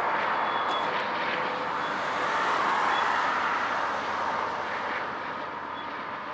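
Long freight train rolling on a curve: a steady rush of steel wheels on rail from the passing cars, with a few faint, short wheel squeals. It swells about halfway through and eases slightly near the end.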